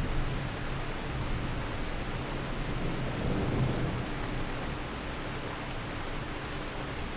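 Steady rain falling in a city, a dense, even hiss, with a low rumble swelling briefly about halfway through.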